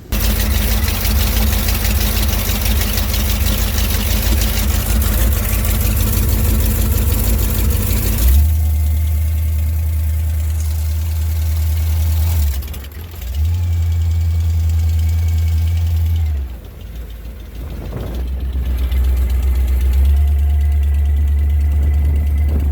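Power boat's inboard engine starting and running loud, dropping off briefly twice before settling back, while no cooling water is getting through it.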